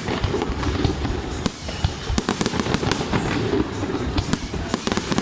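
Fireworks display: a dense, irregular run of bangs and crackling bursts, several a second, over a continuous low rumble.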